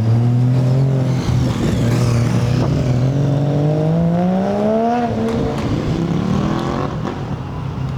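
A car engine pulling away under load. Its pitch holds, then climbs steadily for about two seconds and falls back about five seconds in.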